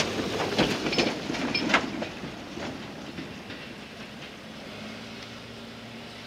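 Train wheels clacking over rail joints and points, a quick run of sharp clicks that dies away into a fading rumble as the train draws off.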